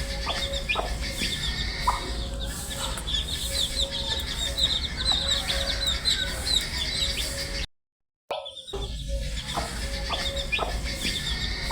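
A brood of baby chicks cheeping, with many short high chirps overlapping in a dense, continuous chorus. About eight seconds in, the sound cuts to silence for half a second and then starts again.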